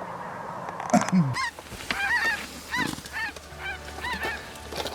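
A flock of snow geese calling: many short, high yelping calls overlapping several times a second, starting about a second and a half in. There is a loud knock about a second in.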